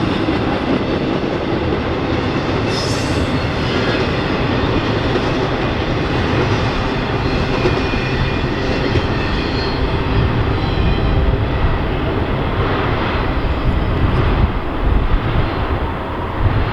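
Norfolk Southern freight train's cars rolling past on the rails, a steady loud rumble of wheels and cars.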